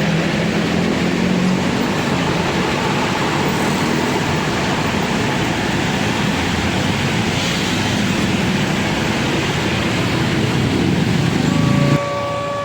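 A train rolling past a level crossing, its wheels and wagons making a steady heavy rumble that cuts off abruptly near the end. Just after the cut, the crossing's electronic warning tones begin.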